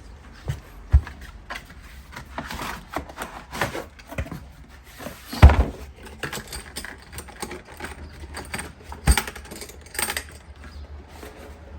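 Irregular clicks, knocks and rattles of things being handled, with a loud thump about five and a half seconds in and another sharp knock near nine seconds.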